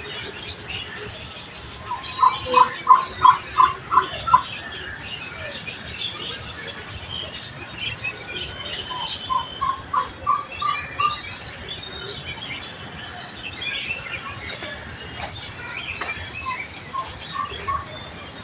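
Birds calling and chirping, with many small high chirps throughout and three runs of loud, evenly repeated notes, about five a second, the loudest run near the start.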